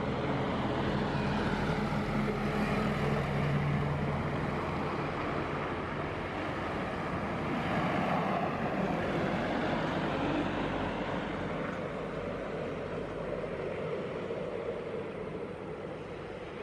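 Jet engines of a Boeing 737-800 (CFM56) running at low taxi thrust, a steady roar and hum that swells slightly twice.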